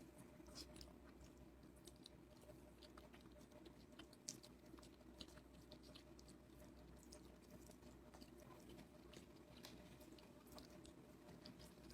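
A person quietly chewing a mouthful of rice and curry, with small mouth clicks scattered irregularly throughout.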